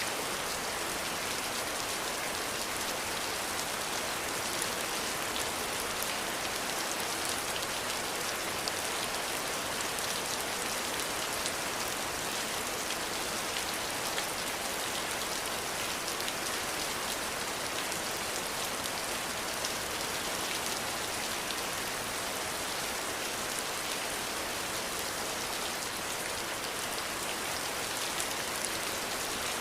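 Steady rain falling, an even hiss with fine, scattered drop ticks.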